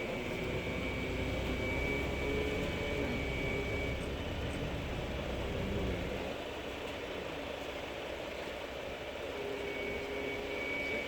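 Bombardier Flexity 2 tram running: a steady low rumble with a thin high whine and a lower hum. The rumble is heavier for the first half and eases after about six seconds; the whine drops out partway and returns near the end.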